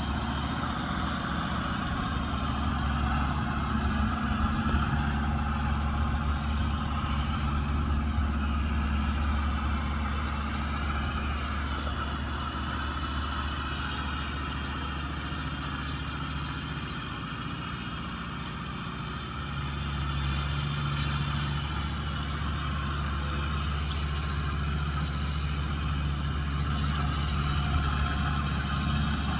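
Kubota M125X tractor's diesel engine running steadily under load while driving a baler. It eases off briefly a little past the middle, then picks up again.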